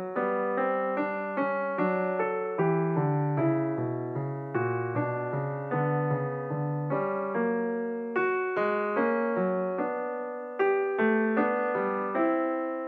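Background piano music: a slow, even run of struck notes, each fading before the next.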